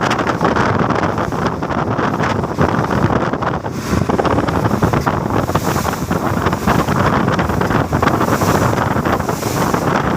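Strong storm wind blowing hard across the microphone, a loud, continuous buffeting rush.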